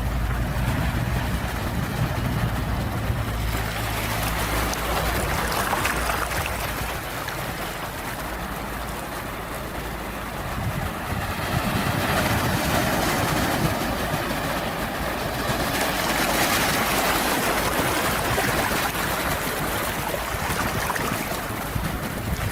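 Ocean waves breaking and washing, swelling louder and fading every few seconds, with a low rumble in the first few seconds.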